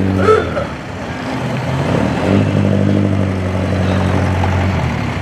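Car engine running at low speed as a rally car creeps past, a steady low engine note that holds for a few seconds.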